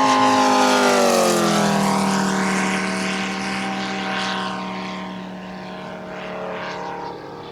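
Moki 250 five-cylinder radial engine of a quarter-scale AT-6 Texan RC model flying past. The engine and propeller note drops in pitch about a second in as the plane passes, then fades as it flies away.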